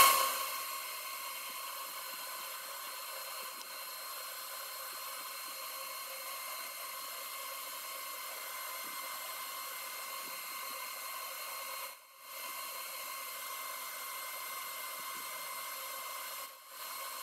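Metal lathe running through a boring cut: a faint, steady whine and hiss, cutting out briefly twice near the end.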